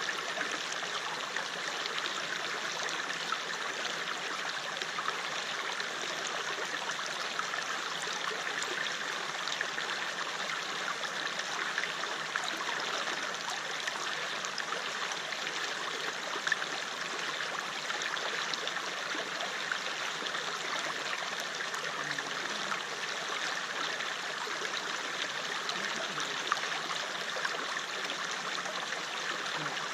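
River water flowing steadily over stones, a continuous rushing babble with small splashes and gurgles.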